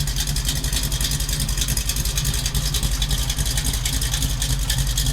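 Chevrolet Nova's engine idling steadily, its exhaust rumbling in quick, even pulses.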